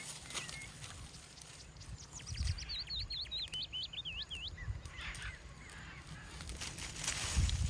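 A small bird sings a quick run of about ten sharp, dipping whistled notes, starting about two seconds in, over gusts of wind rumbling on the microphone.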